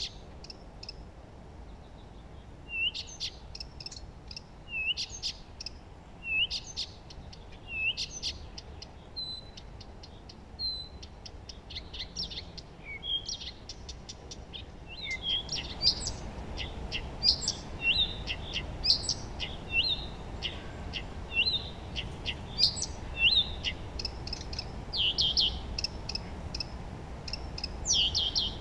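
Songbirds singing. In the first half one bird repeats a short rising call every second or two; about halfway in, a busier chorus of several birds starts over a steady low hiss.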